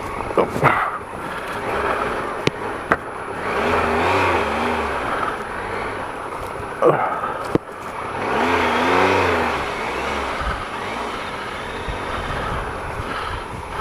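Triumph Explorer XCa's 1215cc three-cylinder engine on an off-road track, its revs rising and falling twice under clutch control, with a few sharp knocks.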